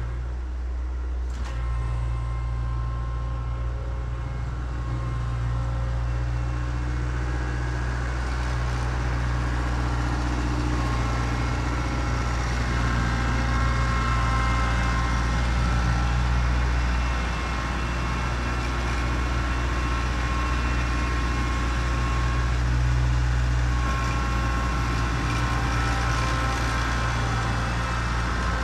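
Kubota B3030 compact tractor's diesel engine running steadily, a constant low drone with fainter higher whining tones that come and go.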